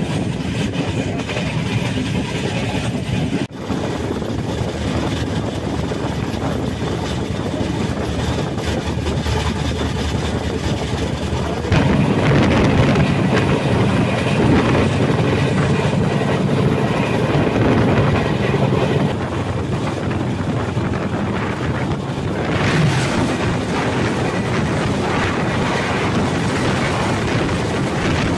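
Express train running at speed, heard from an open coach door or window: steady rumble and wheel clatter on the rails with wind. The noise steps up for several seconds about twelve seconds in.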